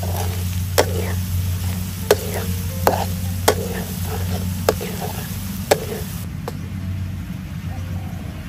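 Minced garlic sizzling as it fries in oil in a wok, stirred with a metal spatula that clacks against the pan about six times. A low steady hum sits underneath and fades out near the end.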